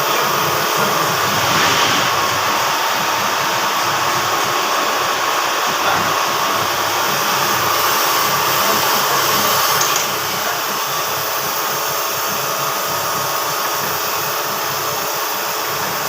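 Machine-shop grinding machine running steadily, a constant whooshing hiss, during work on a Toyota 5L camshaft or cylinder head; it drops a little in level about ten seconds in.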